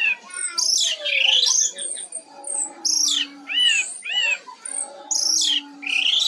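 Orange-headed thrush singing a fast, varied song of whistled notes, rising and falling slurs and arched chirps, delivered in short phrases with brief gaps between them.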